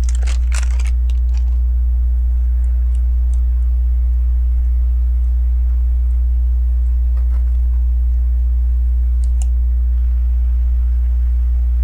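LEGO bricks clicking faintly as they are handled and pressed together: a few scattered small clicks, clustered in the first second and a half, over a loud steady low hum.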